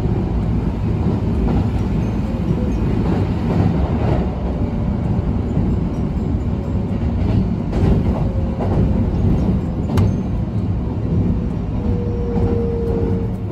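Sanyo Electric Railway electric train running, heard from inside the carriage: a steady, loud rumble of wheels on rails with a few sharp clicks. A faint steady whine comes in near the end.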